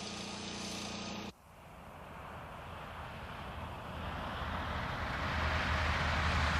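A steady, even-pitched mechanical hum that cuts off about a second in. Then the propeller engines of a de Havilland Caribou twin-engine transport plane, growing steadily louder as it approaches.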